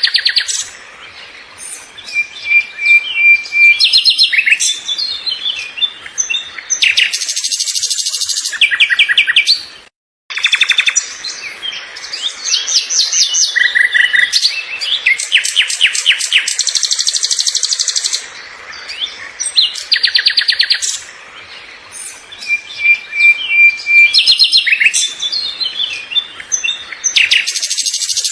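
Songbirds chirping and singing, with rapid trills and runs of quick repeated notes. The sound cuts out for an instant about ten seconds in.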